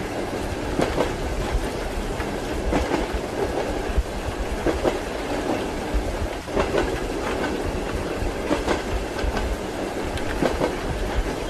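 Train wheels clicking over rail joints in a repeating double knock, a pair about every two seconds, over a steady low rumble of the moving carriage.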